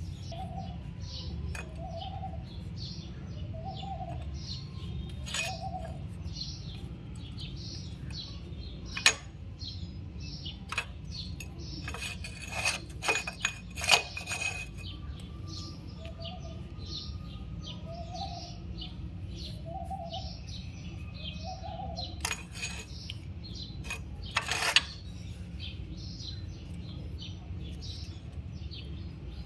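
Small birds chirping, with one bird giving a low call repeated about every second and a half in two runs. A few sharp clicks and knocks stand out over a steady low hum.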